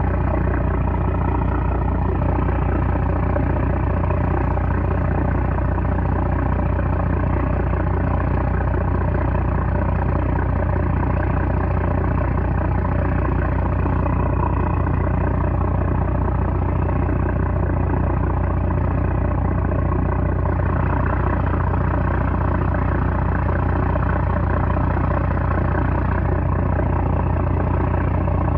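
Small trawler's 330-horsepower diesel engine running steadily, a constant deep drone with an even hum of overtones and no change in speed.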